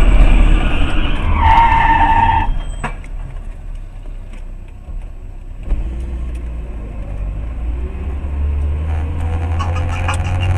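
Car driving, heard from inside the cabin: loud road and engine noise, with a brief steady high-pitched tone about two seconds in. It then goes quieter, with a single knock near six seconds followed by a low rumble.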